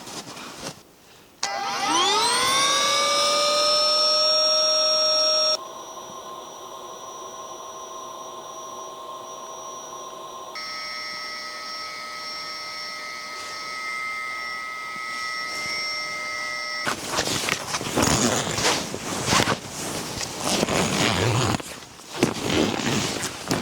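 A small electric motor spinning up with a rising whine that levels off and runs steadily, then two quieter steady whines at different pitches that change abruptly. In the last several seconds this gives way to irregular rustling and scraping noise.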